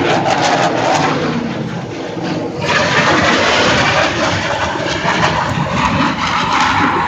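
Loud jet roar from Blue Angels F/A-18 Hornet jets flying over, a continuous rushing noise that grows brighter about two and a half seconds in.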